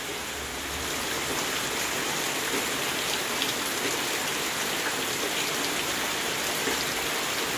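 Steady rain falling into puddles and onto soaked ground.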